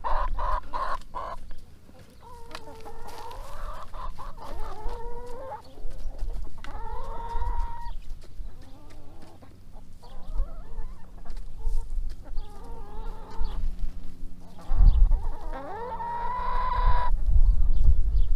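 Backyard chicken flock of hens and a rooster clucking and calling in a string of short calls, with a longer held call near the end. A low rumble comes in near the end.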